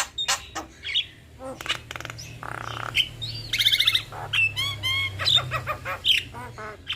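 Javan mynas singing a varied song: sharp clicking chips for the first second or so, then a harsh buzzy note, a fast high rattle and several slurred whistled notes.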